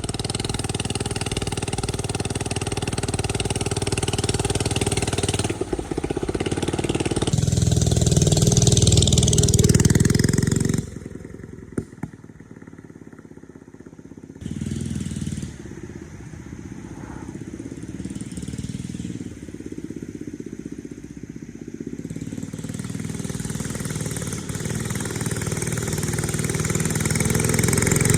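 1979 Thunderbird mini bike's small engine running under throttle as it is ridden. It is loudest about ten seconds in, drops away suddenly, gives a short burst a few seconds later, then builds steadily again toward the end.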